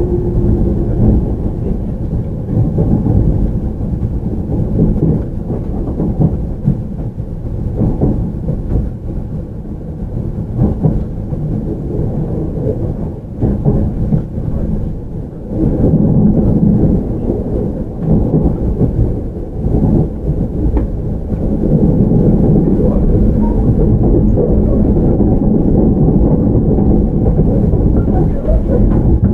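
Running noise heard inside a JR 313 series electric train's motor car: a steady low rumble of wheels and bogies on the rails, with no clear inverter whine. It dips briefly a little under halfway through and is steadier and louder from about two-thirds of the way in.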